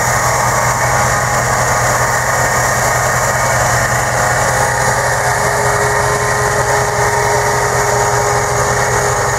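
Off-road 4x4's engine running steadily as the vehicle works through deep mud. A thin steady whine joins about halfway through.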